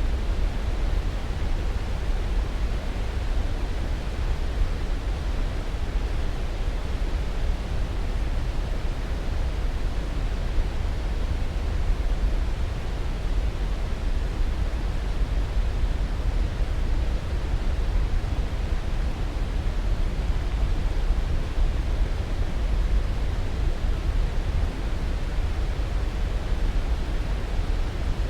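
Steady noise track for sleep, even and unchanging, heaviest in the low rumble and thinning toward the high hiss, like pink noise.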